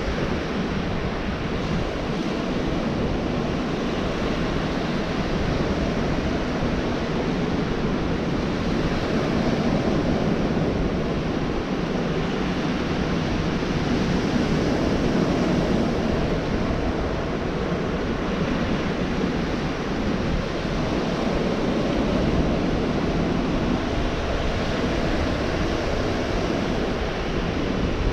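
Gulf of Mexico surf breaking and washing on the beach, a continuous rushing wash that swells and eases gently every few seconds, with some wind on the microphone.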